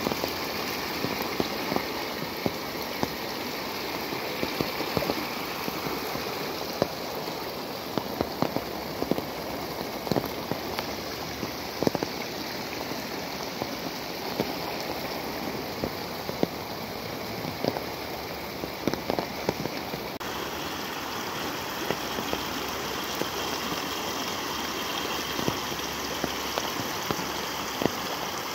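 Heavy rain falling steadily, with frequent sharp taps of drops landing close by, mixed with muddy floodwater rushing through a paddy-field channel and over an earthen bund. The sound changes abruptly about twenty seconds in.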